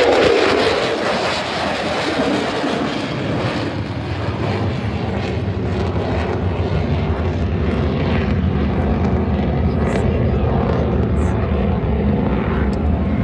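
Jet aircraft flying past, a loud engine roar that comes in suddenly with a falling pitch and then holds steady.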